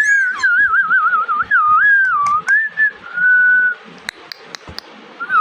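Indian ringneck parrot whistling: a warbling whistle that wobbles rapidly up and down in pitch, then two shorter whistles, the last one held on a steady note. A few sharp clicks follow near the end.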